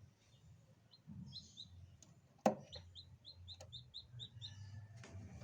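Newly hatched chicks peeping inside an incubator: short, high, falling peeps in quick runs. A single sharp knock about halfway through is the loudest sound, over a low hum.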